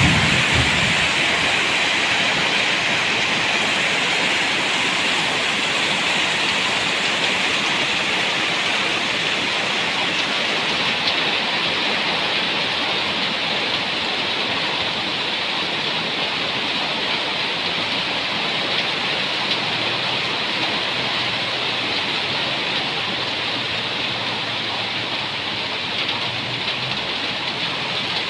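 Steady heavy rain: a dense, even hiss that eases very slightly over the stretch, with a brief low rumble at the very start.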